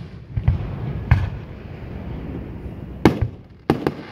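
Aerial fireworks shells bursting, about six sharp booms: one about half a second in, another just past a second, then a quick cluster of four in the last second.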